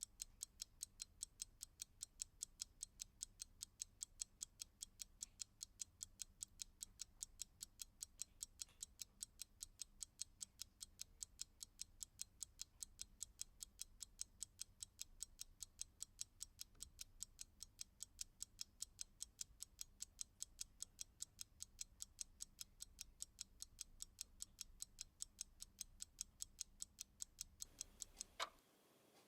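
Clock ticking: quick, faint, evenly spaced ticks, about three a second, over a faint low hum. Near the end the hum stops and the ticks turn into a couple of louder, more widely spaced ones.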